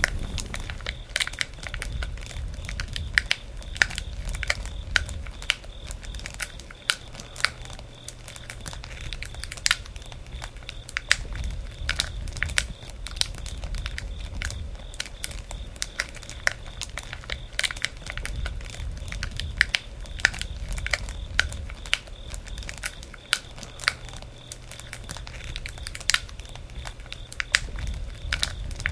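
Wood campfire crackling, with frequent irregular sharp pops over a low rumble.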